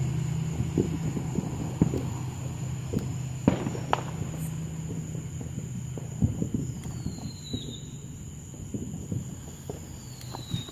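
Consumer fireworks going off: scattered sharp pops and crackles, with two falling whistles in the second half, over a steady low hum.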